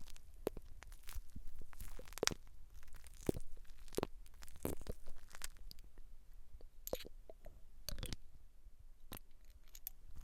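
Close-miked hair and scalp handling for ASMR, crisp irregular crackles and scratches a few times a second.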